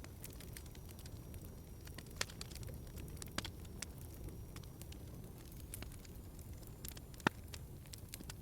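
Wood fire burning in a fireplace: a steady low rumble with scattered crackles and sharp pops, the loudest pop about seven seconds in.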